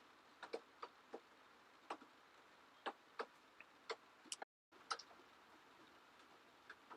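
Near silence with a dozen or so faint, irregularly spaced clicks and ticks, and a brief dead gap about halfway through.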